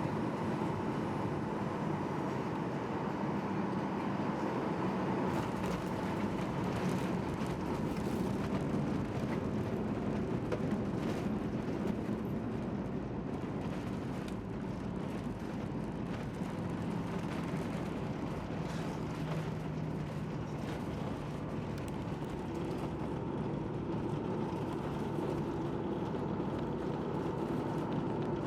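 A vehicle running: a steady rumble with low hums that shift in pitch, one dropping slightly partway through and a higher one coming in near the end, with a few faint clicks.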